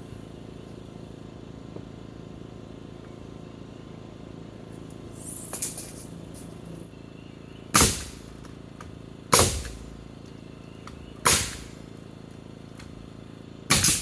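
Nails being driven into wooden barn framing: four loud, sharp strikes about a second and a half to two seconds apart, with a fainter clatter about five seconds in.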